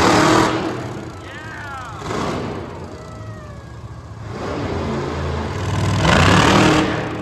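Monster truck engine revving in two loud surges, one at the start and another about six seconds in, running lower in between.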